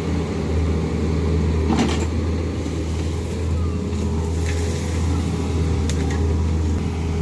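Excavator diesel engine running steadily at an even speed, a constant low hum with no revving, with a few faint knocks.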